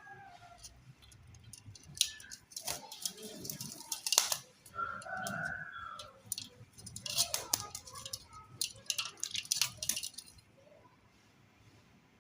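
A parrot's short, pitched chattering calls mixed with rapid clicking and rattling. The clicking stops about two seconds before the end.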